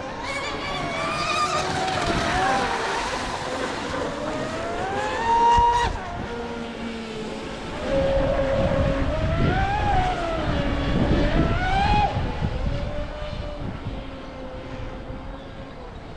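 Two large electric RC speedboats, a Pro Boat Blackjack 42 and a Sonicwake 48 with brushless motors on 12S, running flat out on the water, their motor whines rising and falling in pitch over a rush of hull and spray noise. The whines are loudest about five seconds in and again from about eight to twelve seconds in, then fade as the boats run away.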